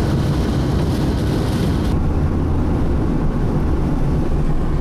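Steady low rumble of a moving vehicle, with a high hiss that cuts off about two seconds in while the rumble grows stronger.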